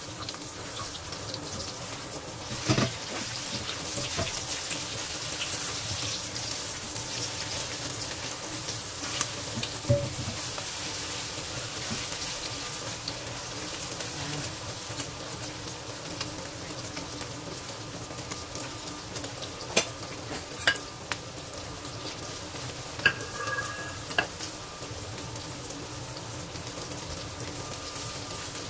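Egg and okra sizzling steadily in hot oil in a frying pan. A silicone spatula scrapes through the food and knocks against the pan now and then, as the omelette is cut up and turned.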